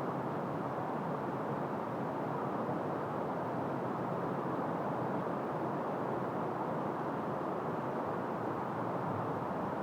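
Wind blowing steadily through trees, an even noise with no gusts or separate sounds standing out.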